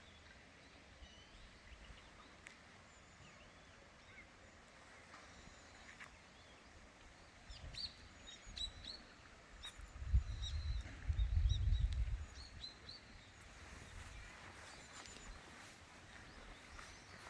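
Small birds chirping in short, high calls over quiet outdoor background noise, busiest in the middle. A low rumble comes in for about two seconds around the middle and is the loudest sound.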